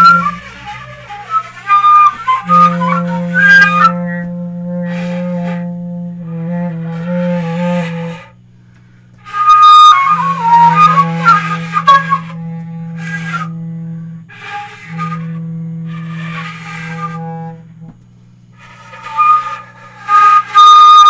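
Loose, improvised-sounding flute melody wandering and sliding over a low held bass note. The playing drops away briefly about 8 and 18 seconds in.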